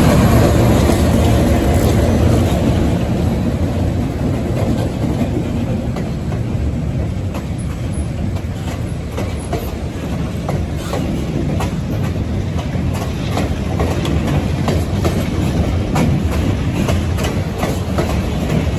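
Diesel switcher locomotive passing close by, its engine loudest at the start, then a train of passenger coaches rolling past. The coach wheels click over the rail joints, the clicks coming thickly through the second half.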